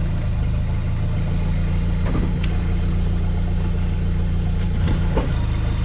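Off-road truck engine running steadily at low revs, with a couple of faint knocks about two seconds in and again near the end.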